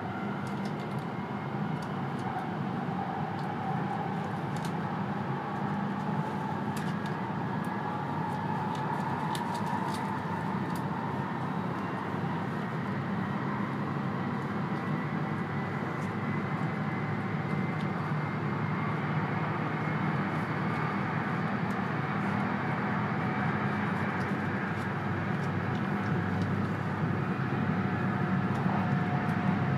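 E2-series Shinkansen electric train running, heard from inside the passenger cabin: a steady rumble and hiss with a faint whine that slowly rises in pitch, growing a little louder near the end.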